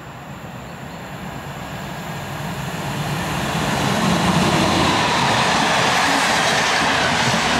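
Electric locomotive hauling a train of passenger coaches approaches and passes close by, its wheel and rail noise building over the first few seconds and staying loud as the coaches roll past.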